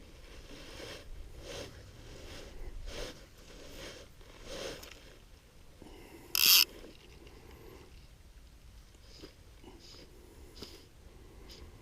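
Soft rustling scrapes close to the microphone, coming at an even pace of a little over one a second, then a brief, loud, sharp crackle about six seconds in, followed by a few faint clicks.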